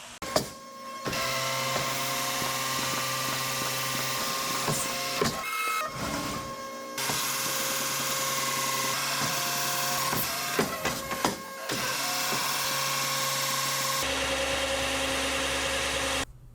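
Powered drill bit boring holes into the steel railway-rail anvil. The motor runs with a steady whine, stops and restarts a couple of times with short clicks and knocks in between, and changes pitch near the end.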